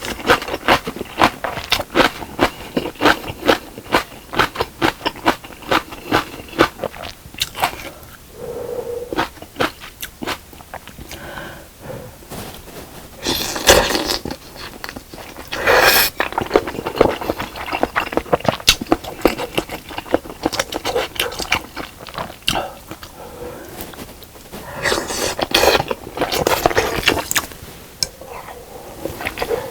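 Close-miked eating of spicy fish cake soup with rice cakes: rapid wet chewing and crunching bites, with a few louder rushes of noise around the middle and again near the end.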